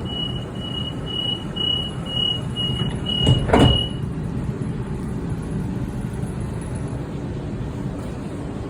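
Sydney Trains Waratah door-closing warning: a run of evenly spaced high beeps, about two and a half a second, stops about four seconds in. The doors shut with a loud thud about three and a half seconds in, over the carriage's steady low rumble.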